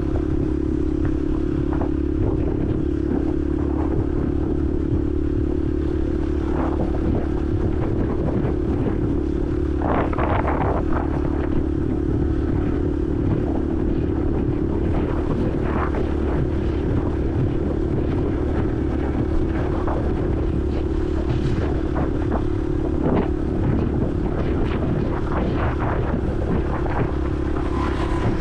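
Honda CRF150L's single-cylinder four-stroke engine running at a steady speed on the move, heard from a helmet-mounted camera. Short clicks are scattered over it, with a brief noisier sound about ten seconds in.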